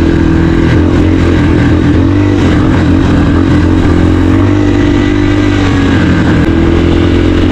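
Dirt bike engine running under way as it is ridden, a steady drone whose pitch dips and climbs back a couple of times, about two seconds in and again near five seconds.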